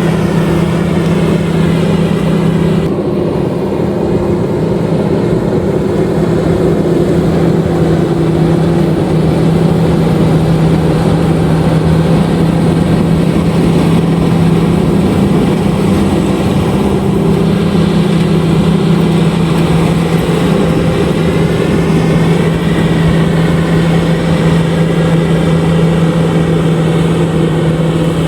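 LOVOL RG130EVO rice combine harvester running steadily under load while harvesting, a loud, even engine-and-machinery drone with a strong steady hum.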